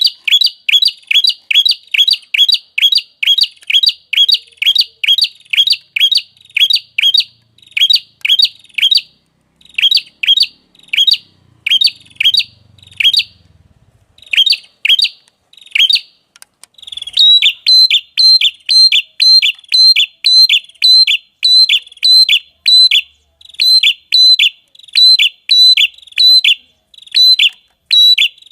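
Recorded call of a small songbird: a short, sharp note falling in pitch, repeated about three times a second with machine-like regularity, as in a looped masteran training recording. About 17 s in the note changes to a slightly different shape, with a brief rise before the fall, and keeps the same steady pace.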